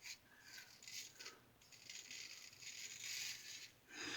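Single-edge safety razor (1914 Ever Ready) scraping through one day's stubble in a series of short, faint, scratchy strokes.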